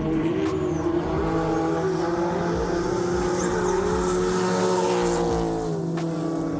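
Drift car engine revving up and down, with a second, steadier engine note held underneath.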